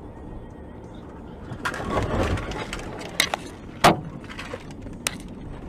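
Road vehicle collision picked up by a dashcam microphone: a rough rush of noise, then a few sharp cracking knocks, the loudest a little under four seconds in.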